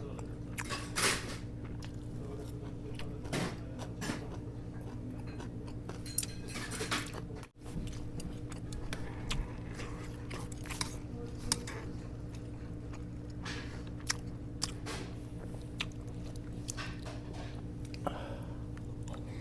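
A person chewing and eating a meal of gomtang, with scattered short sharp clicks, over a steady low hum.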